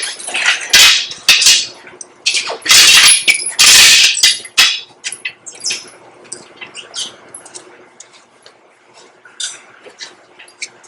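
Metal scraping and clanking from heavy tractor wheel work: several loud rasping scrapes in the first four and a half seconds, the longest lasting about two seconds, then scattered light clicks and knocks.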